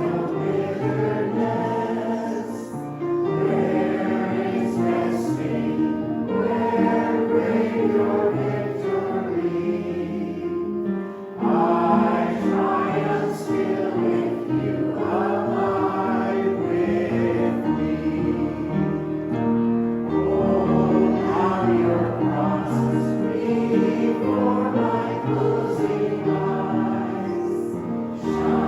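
Choir singing, with a brief pause about eleven seconds in before the singing resumes.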